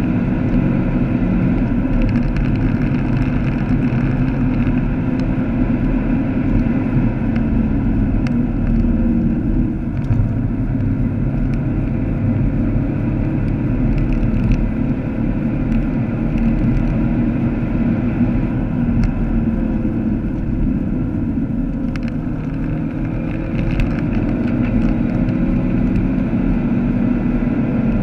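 Vauxhall Astra VXR's turbocharged four-cylinder engine running at speed, heard from inside the cabin together with tyre and road noise. The level dips briefly about ten seconds in and again around twenty-two seconds.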